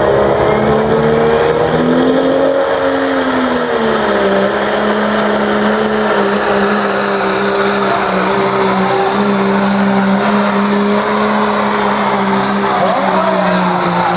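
Diesel pickup truck engine running hard under load, as in a truck pull; its pitch rises about two seconds in, drops back a second or so later, then holds a steady drone.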